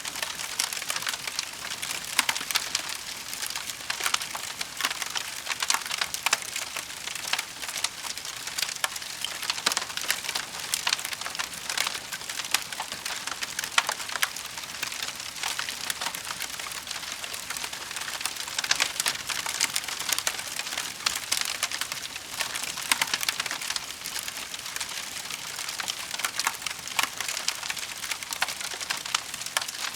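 Wood fire burning in a fireplace: a steady stream of dense crackling with frequent sharp pops.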